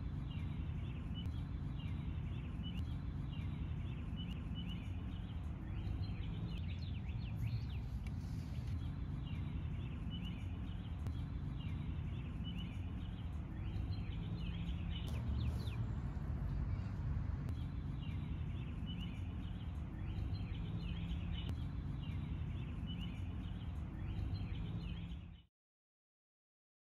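Outdoor ambience: a steady low rumble with a bird calling over and over in short, high chirps. It cuts off suddenly near the end.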